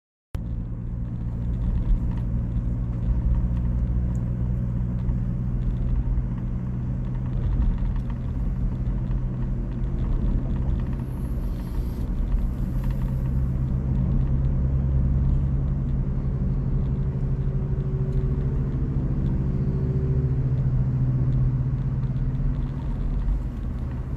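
Steady low engine and road rumble inside a moving car.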